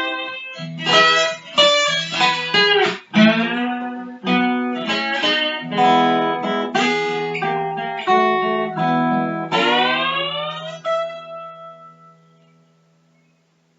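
Guitar music with plucked notes and chords, ending on a last chord that rings out and fades away near the end.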